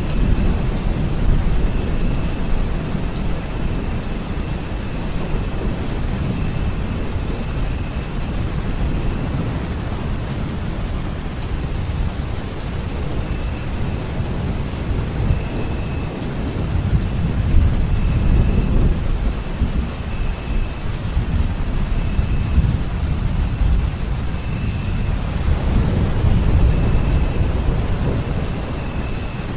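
Steady rain falling in a thunderstorm, with low rolling thunder that swells twice, around the middle and near the end.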